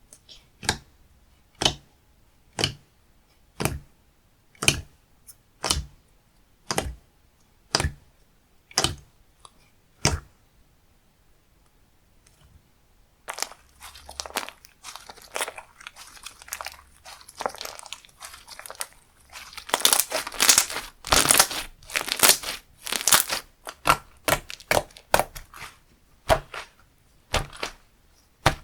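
Slime being played with by hand. For about ten seconds there are sharp pops about once a second as it is pressed. After a short pause comes a dense crackling as it is stretched and folded, louder in the second half.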